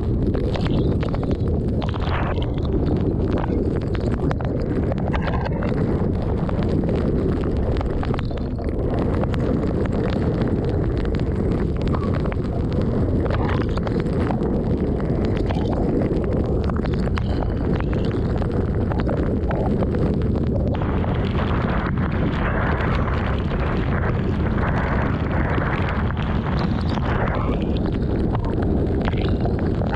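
Strong thunderstorm wind buffeting the microphone: a loud, continuous low rumble. A brighter hiss joins it about two-thirds of the way in for several seconds.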